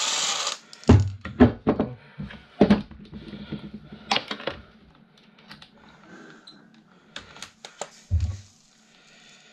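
Desk fan motor being taken apart by hand: a brief scraping rush, then a series of knocks and clicks as metal and plastic parts are handled and set down, with another knock near the end.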